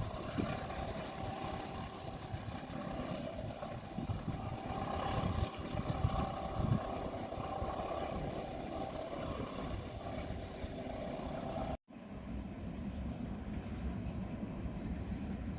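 Steady rumble of a passing train, with a few held tones over the noise. The sound cuts out for an instant about twelve seconds in, then a similar rumble resumes.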